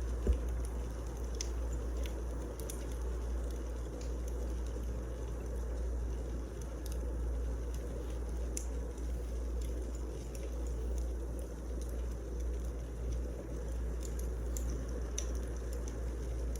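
Wood fire crackling, with scattered small pops and snaps over a steady low rumble. One sharp, louder knock comes just after the start.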